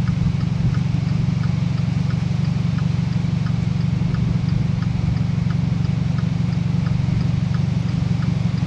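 Car engine idling, heard as a steady low hum from inside the vehicle, with a light regular ticking about three times a second.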